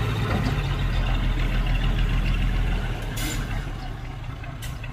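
Heavy diesel engine of earthmoving equipment running with a strong low rumble that eases off about three seconds in, where a short hiss cuts in, with a second brief hiss near the end.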